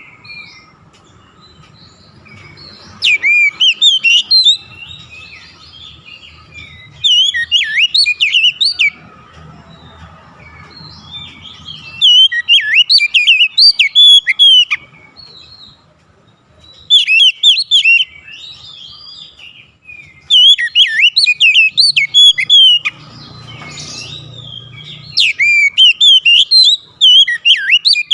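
Oriental magpie-robin (kacer) singing: about six loud phrases of fast, varied whistles and chirps, each a couple of seconds long, with short pauses between them.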